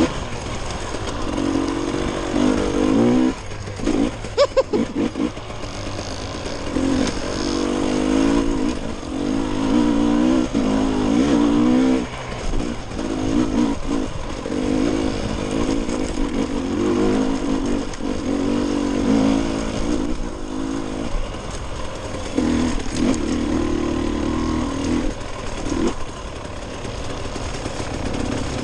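Dirt bike engine revving up and falling back again and again as it rides, with a quick cluster of sharp knocks about four seconds in.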